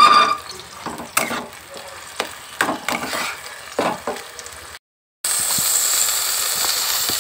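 Onion paste frying in hot oil and ghee in a nonstick kadai, stirred and scraped with a steel spatula in short strokes. The sound drops out briefly about five seconds in, then a steady sizzle of the bubbling paste.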